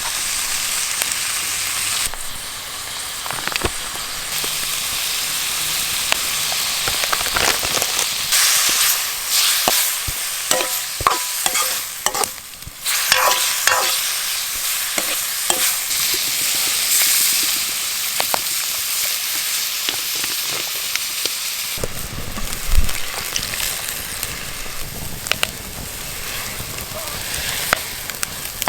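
Food sizzling in a hot pan while being stirred, with a metal utensil scraping and clinking against the pan; a run of ringing metal clinks comes about ten to fifteen seconds in.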